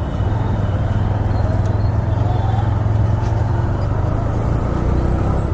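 TVS Raider 125's single-cylinder engine and exhaust running steadily while the motorcycle is ridden.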